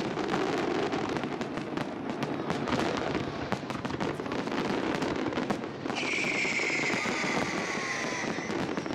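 Aerial fireworks going off in dense, rapid cracks and bangs. About six seconds in a high whistle starts and is held for about three seconds, sinking slightly in pitch.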